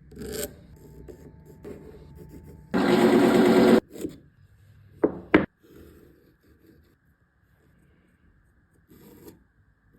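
Wood being scraped against a tapering tenon cutter: a loud rasping scrape lasting about a second around three seconds in, then two short, sharp squeaks close together about five seconds in, with light knocks of tool and wood between.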